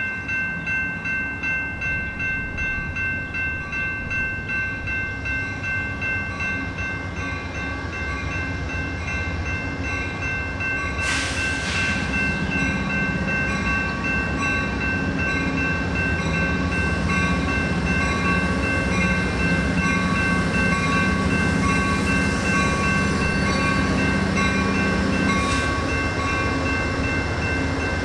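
A train passing, its rumble growing louder through the first half, over a steady high ringing with a pulsing beat. A short hiss comes about eleven seconds in and again near the end.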